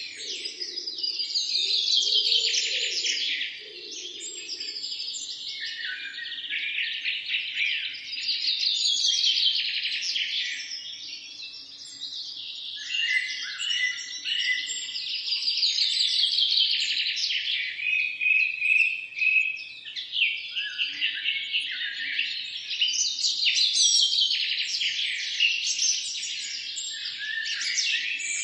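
Several songbirds chirping and singing together in a dense, continuous chorus of quick chirps and descending trills.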